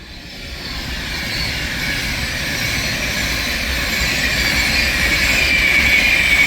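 Class 390 Pendolino electric train passing through, a rush of wheel and air noise that builds steadily as it approaches and then holds loud, with a high ringing from the wheels on the rails that drops slightly in pitch near the end.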